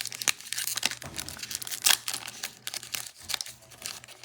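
Card-pack wrappers crinkling and tearing as football card packs are ripped open and handled, a dense run of irregular crackles and rustles.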